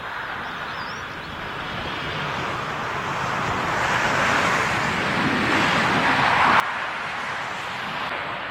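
Jet airliner on landing approach, its engine noise swelling steadily louder as it nears. It cuts off suddenly about two-thirds of the way through, leaving a quieter rush of wind.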